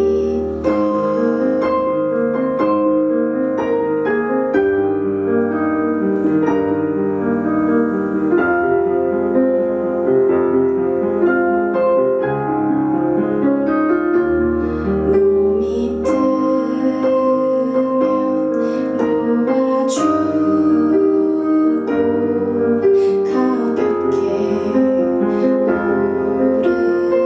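Live piano-led pop music: sustained keyboard chords and melody over a bass line, with a few sharp cymbal-like strokes.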